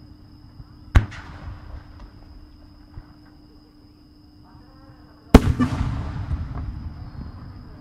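Aerial firework shells bursting overhead: a sharp boom about a second in, then a louder boom about five seconds in, followed by a rumbling tail of scattered pops that fades over a couple of seconds.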